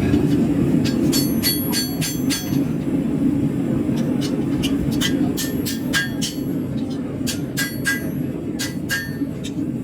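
Hammer blows on hot steel at an anvil: a run of sharp, ringing strikes at an uneven pace, bunched in the first couple of seconds and then spaced out. Under them is the steady roar of a forge.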